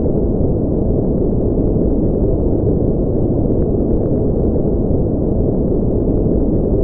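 Steady white-noise sleep track, deep and dull, with no high hiss. It stays constant, with no changes or events.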